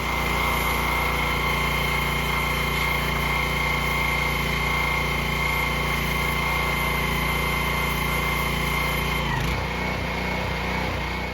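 Pressure washer (jet wash) running steadily with a constant whine and the hiss of spray, cleaning down an old tractor. Its low running note shifts about nine seconds in.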